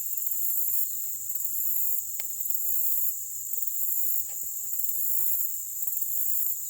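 Insect chorus: a steady high-pitched buzz with a higher, shriller layer that pulses on and off about once a second. Two faint clicks come about two and four seconds in.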